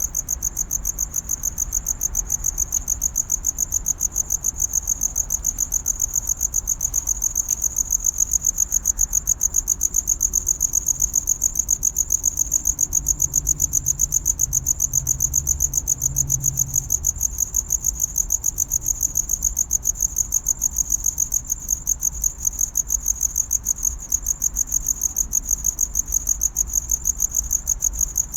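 A cricket chirping close by: a loud, high-pitched trill pulsed in a fast, steady rhythm, the calling song used to attract a mate.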